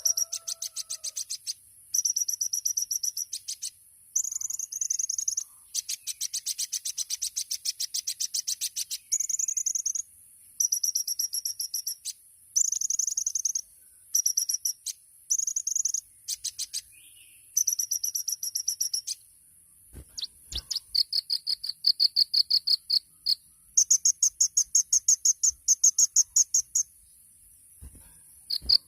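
Kolibri ninja, a sunbird, singing: rapid high trilled phrases of a second or two each, repeated with short gaps between them, over a steady high-pitched hiss.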